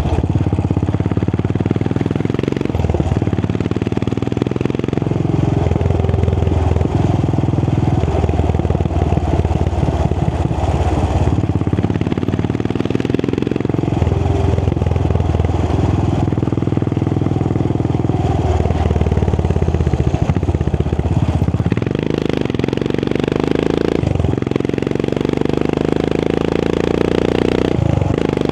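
Royal Enfield Continental GT 535's single-cylinder engine running through an AEW aftermarket exhaust while the motorcycle is ridden, its thump rising and falling with the revs, with a few short dips along the way.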